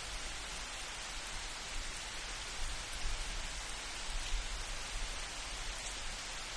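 Steady rain falling, an even hiss with a low rumble underneath that swells a little in the middle.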